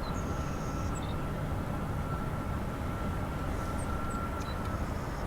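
Jet aircraft engine noise: a steady low rumble with a thin steady whine that fades out near the end, and a few faint high chirps.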